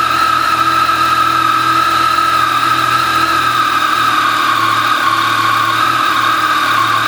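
Yamaha Tracer 900's 847 cc inline-three engine idling steadily through its stock exhaust after a cold start.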